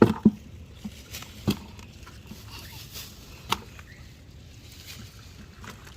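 A few sharp, short knocks: two close together at the start, another about a second and a half in and one more about three and a half seconds in, over a faint low background.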